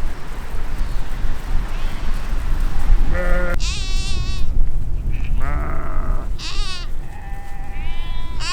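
Flock of sheep bleating: several separate quavering calls at different pitches, starting about three seconds in and overlapping toward the end, over a steady low rumble.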